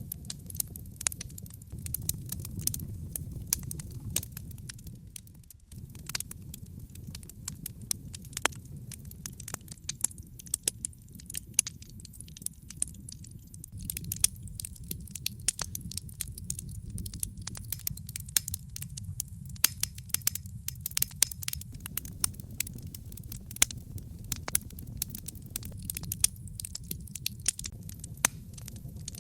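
Wood logs burning in a fireplace, crackling with many irregular sharp pops and snaps over a low steady rumble of the flames.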